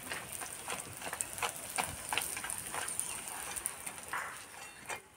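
Soaked sago pearls frying in oil in a karahi, a steady sizzle with many small crackles and pops as the metal spatula turns them; the sizzle drops away near the end.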